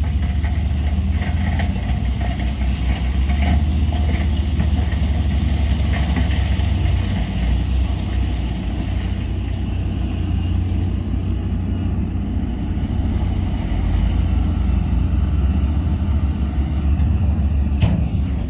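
Heavy diesel engine of earthmoving machinery running steadily with a deep rumble, with scattered metallic clanks and a sharp knock near the end.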